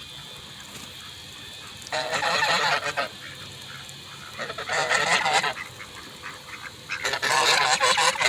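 Flock of geese honking in three loud bouts, each about a second long, the last the longest and running to the end.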